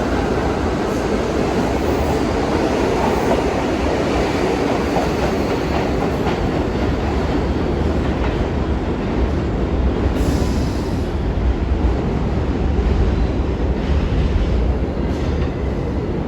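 New York City subway train running on the rails: a steady loud rumble with wheel clatter and a little wheel squeal, the low rumble growing stronger in the second half.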